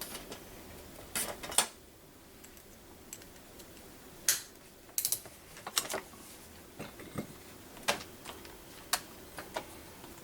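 Irregular light clicks and taps of small metal carburetor parts and hand tools being handled, about a dozen scattered clicks with pauses between them.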